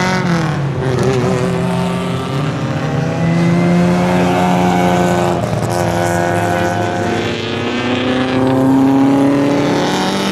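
Several vintage muscle race cars' engines running hard on track, their pitch climbing under acceleration and dropping sharply at gear changes, overlapping as the cars pass.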